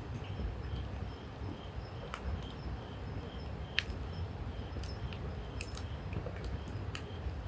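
Wood campfire burning, with a few sharp crackles and pops, the loudest about halfway through, over a low steady rumble. Insects chirp faintly and repeatedly in the background.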